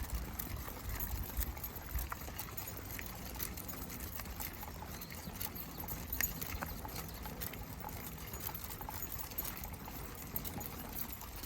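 Footsteps of a walker and a pack of dogs on a trail: irregular light crunching steps and clicks over a low rumble.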